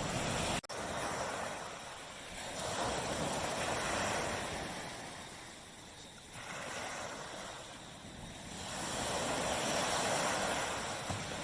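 Tropical sea waves breaking and washing up a beach, the surf swelling and fading in slow surges every few seconds. There is a brief dropout about half a second in.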